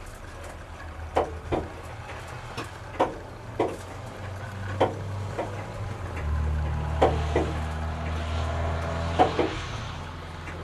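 A series of scattered sharp knocks or clicks, with a low steady mechanical hum that comes in about halfway and grows louder.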